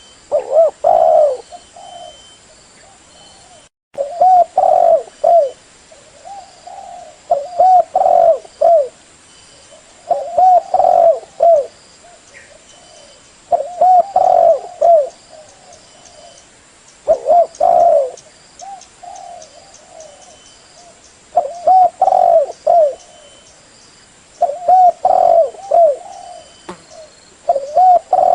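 Spotted dove (tekukur) cooing: a repeated phrase of several low, bubbling coo notes, given about every three to four seconds.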